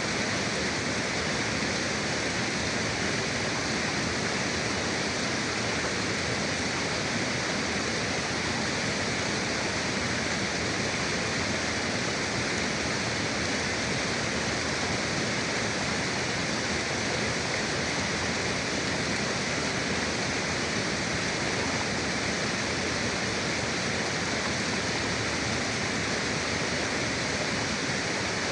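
Forest river flowing, a steady, even rush of water with no breaks or separate splashes.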